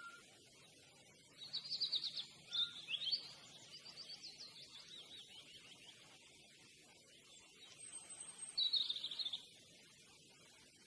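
Songbirds singing: a loud burst of rapid high chirps, then a softer fast trill, and another loud chirping phrase near the end, with one thin high whistle just before it.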